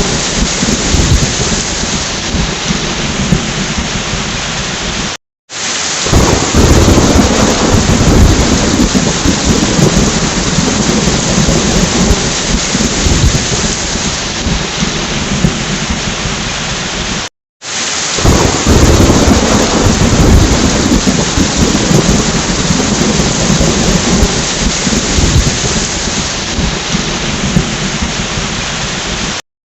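Steady heavy rain with low rolling thunder. The sound drops out completely for a moment twice, about a third and two-thirds of the way through, and each time the thunder rumble swells again right after: a repeating loop of a rain-and-thunder recording.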